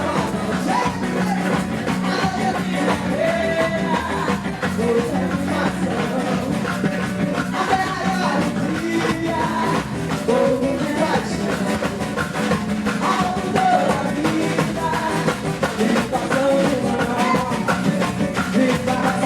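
Live band playing a festive São João song with singing over guitar, bass, trombone and a large percussion section, its steady beat running throughout.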